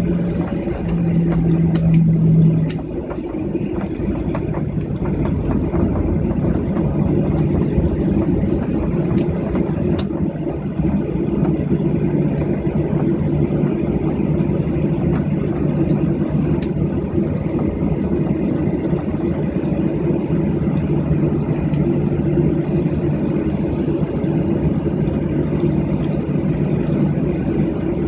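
Jet airliner's engines running, heard from inside the passenger cabin as a steady hum and rush of noise. A low humming tone is stronger for the first few seconds, then settles into the even drone.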